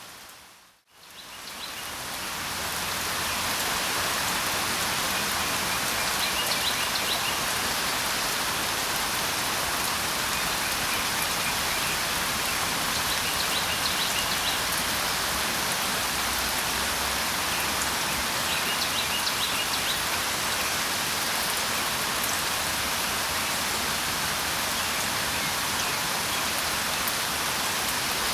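Steady rainfall with faint bird chirps a few times. The sound dips out briefly about a second in and fades back up over the next few seconds.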